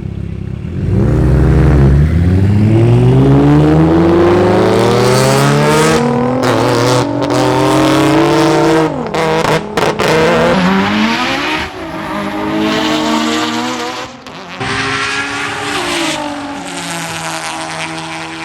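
Street car's engine at full throttle in a roll race, rising in pitch and dropping back at several gear changes as it accelerates hard. The engine note then levels off and fades.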